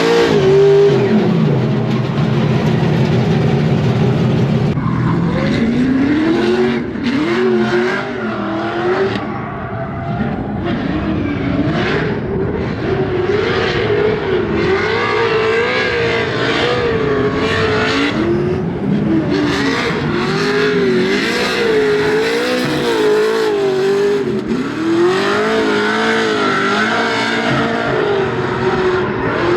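Scion FR-S drift car's engine revving up and down over and over during a shakedown drive. The engine holds steadily for the first few seconds, then its pitch swings repeatedly for the rest.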